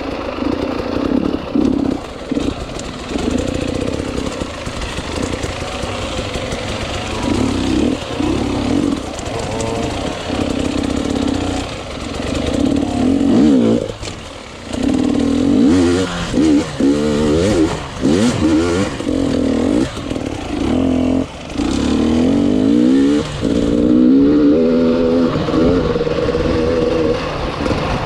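Enduro motorcycle engine revving up and down under changing throttle, with short drops off the throttle, the deepest about halfway through.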